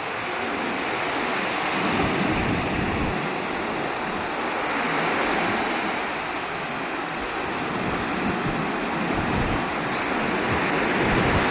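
Sea waves washing in on the shore, the surf swelling and easing every few seconds, with wind gusting on the microphone.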